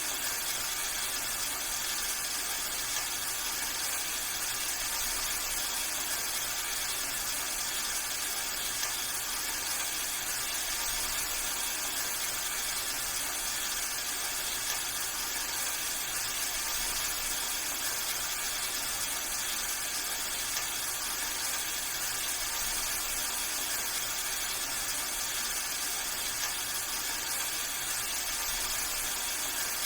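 Steady rain: a continuous hiss with a dense patter of drops.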